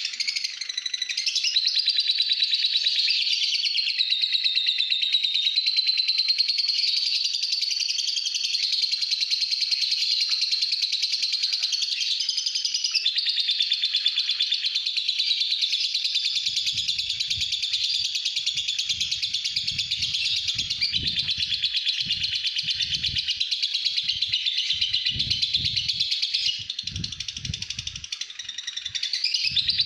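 Pastel-green lovebird singing its long, unbroken ngekek: a rapid, high, continuous chatter that runs without a pause and dips in loudness a few seconds before the end. From about halfway, irregular low thumps sound underneath.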